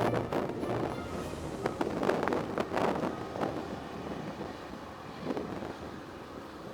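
Background music with a beat fading out about three seconds in, leaving wind rushing over the microphone.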